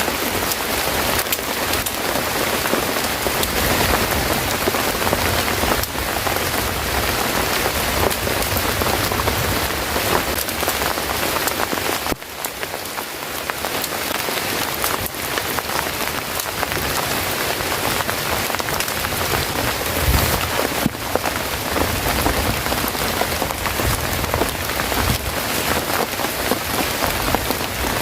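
Steady heavy rain falling and pattering on surfaces, an even hiss full of fine drop ticks, briefly dropping in level about twelve seconds in.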